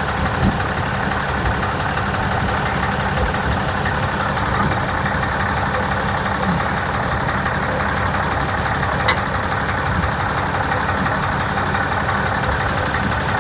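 A machine running steadily, an even engine-like drone that holds at one level throughout.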